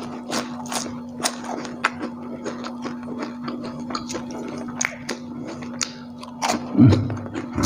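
Close-up chewing of crispy fried egg in sambal: many short, crisp crunching clicks and wet mouth sounds, over a steady low hum.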